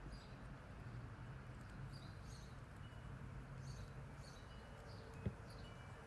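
Faint small ticks and clicks of craft wire being bent and looped by hand over a low steady hum, with one soft knock about five seconds in.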